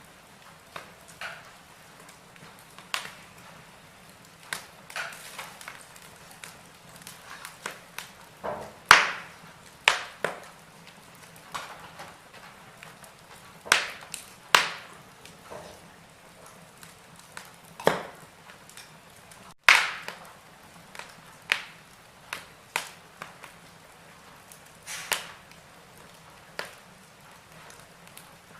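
Wood fire crackling in a fireplace: irregular sharp pops and snaps over a faint steady hiss, with the loudest pops coming about nine seconds in and again around twenty seconds.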